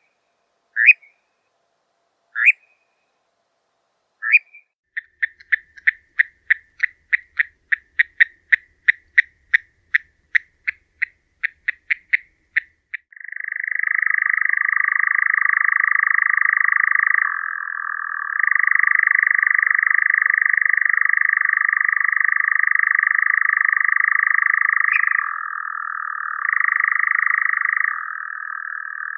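European nightjar calling: a few short sharp calls, then a run of clipped notes at about three a second. About 13 s in, the bird switches to its continuous churring trill, which shifts between a higher and a lower pitch several times.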